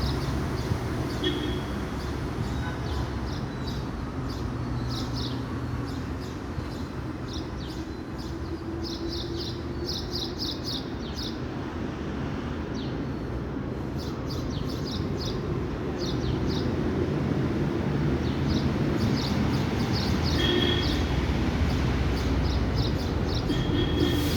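Small birds chirping in quick clusters of short notes, over a steady low rumble of street traffic.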